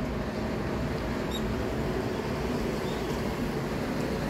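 Small bird chirping faintly: a short run of quick high chirps about a second in and a single chirp near three seconds, over a steady low background rumble.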